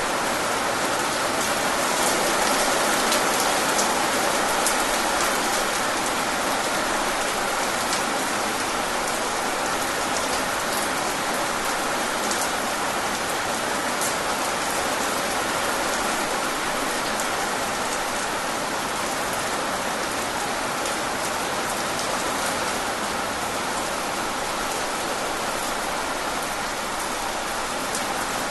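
Steady rain falling, with fine drop ticks scattered through an even hiss.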